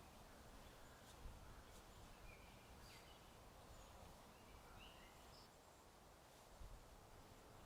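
Faint outdoor ambience: a steady low hiss with a few short, distant bird chirps.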